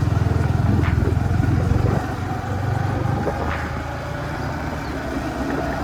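Motorcycle engine running under way, a steady low fast pulsing that eases off a little about two seconds in.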